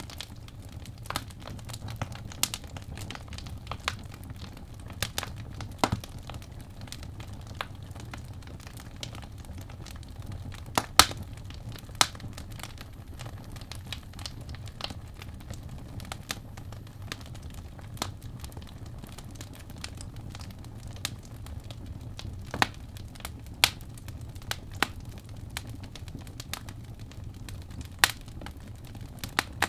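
Wood fire crackling, with irregular sharp pops, a few of them louder, over a low steady rumble.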